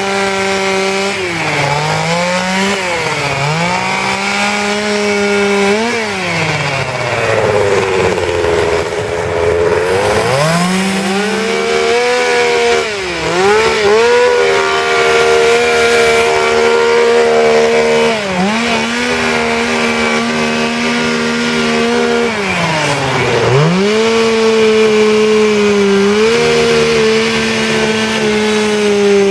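Two-stroke chainsaw running at high revs and cutting wood, its pitch sagging each time the chain bites under load and climbing back as the cut eases; the longest, deepest sag comes about eight to ten seconds in.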